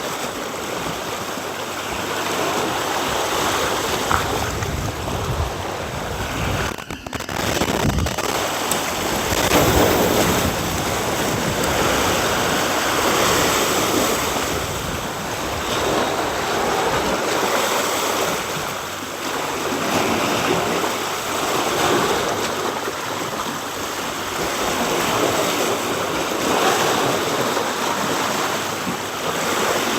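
Sea water churning and swirling around a rocky point, surf washing against the rocks in swells that rise and fall every few seconds.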